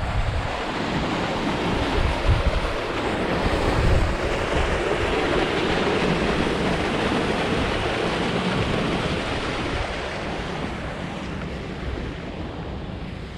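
Strong, gusty wind blowing across the microphone, with low buffeting thumps in the first few seconds, easing a little near the end.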